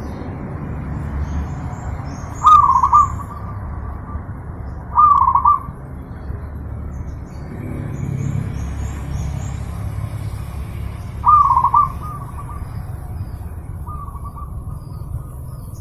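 Zebra dove (perkutut) cooing: three loud, short trilled coos about half a second each, spaced a few seconds apart, with a few fainter coos between, over a steady low rumble.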